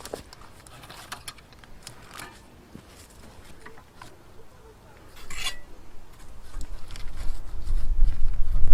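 Scattered light clinks and knocks of dishes or utensils being handled, with a short scraping rustle about five seconds in. A low rumble builds up over the last few seconds and is the loudest part.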